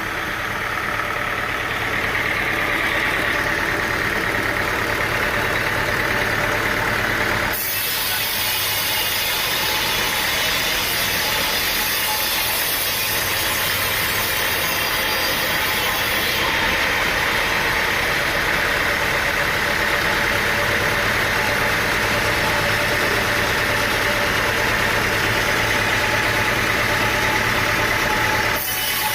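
Sawmill machinery running, with a steady engine hum under it. About seven seconds in the sound changes suddenly and a strong high hiss joins the hum, then it changes again near the end.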